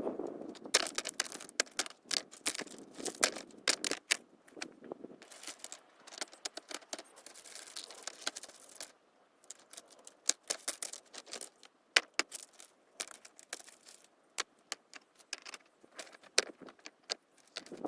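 Stones clicking and knocking together as they are handled and set in place, irregular sharp knocks with some scraping and rustle, busiest in the first half and sparser later.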